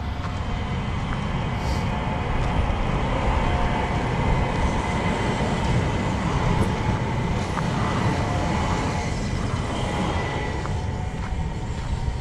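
A rail vehicle running close by: a steady low rumble with faint high whining tones over it.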